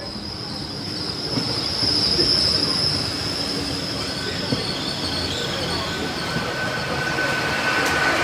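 A train running on the rails, its running noise growing louder over the first couple of seconds, with a high, steady wheel squeal that fades about halfway through and a lower squeal tone setting in near the end.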